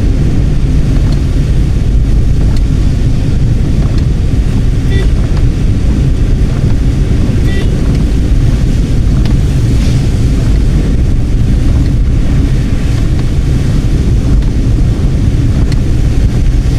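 Strong steady wind rumble buffeting the microphone inside a moving car, mixed with road noise.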